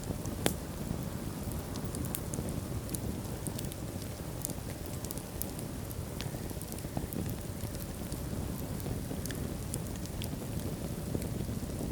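Wood fire burning in a fireplace: a steady low rumble of flames with frequent small crackles and one louder pop about half a second in.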